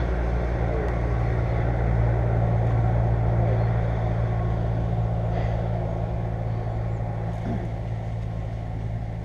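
A motor engine running steadily with a low hum, growing a little louder about two seconds in and then slowly fading.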